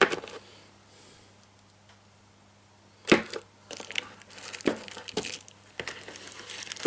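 Lathe accessories and their case being handled: a click at the start, then after a quiet pause a sharp knock about three seconds in, followed by a run of small clicks and rustles.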